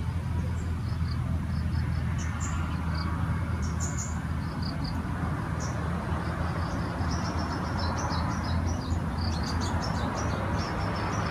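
Small birds chirping in short, repeated high notes, busier in the second half, over a steady low rumble.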